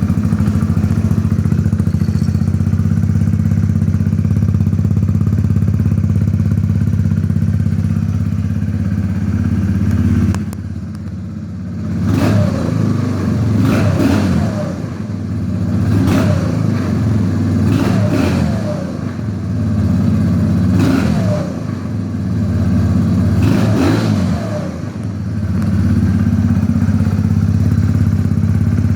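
Kawasaki Z125 Pro's 125 cc single-cylinder four-stroke engine running through a custom low-mount exhaust. It idles steadily at first, then from about halfway in it is revved in about six short throttle blips.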